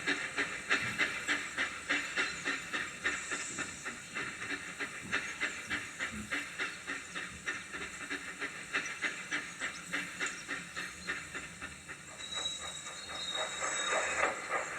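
Steam locomotive running at a steady pace, its exhaust chuffing about three times a second over the hiss of steam. A thin high tone sounds for a couple of seconds near the end.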